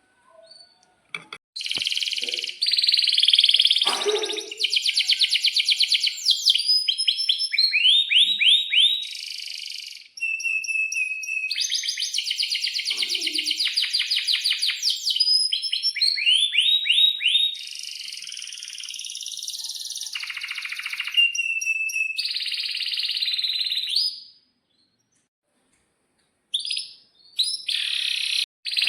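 Domestic canary singing long phrases of fast trills and rolls mixed with sharp sweeping chirps, pausing for about two seconds near the end before starting again.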